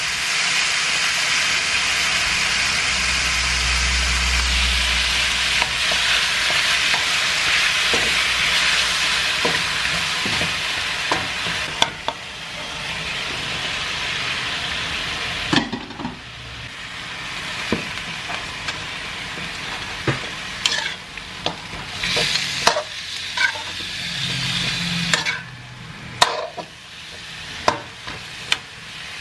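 Chicken pieces sizzling in a hot metal pan while a wooden spatula stirs them, with scrapes and knocks against the pan. The sizzling fades about halfway through, leaving mostly sharp spatula clicks over a softer sizzle.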